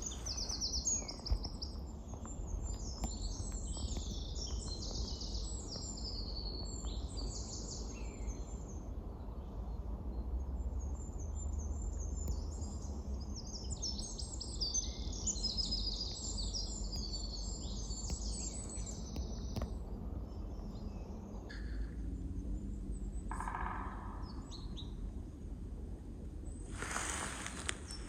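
Several songbirds singing at once in a forest, high twittering and trilling phrases overlapping, over a steady low rumble of wind. The singing thins out after about twenty seconds, and a short burst of noise comes near the end.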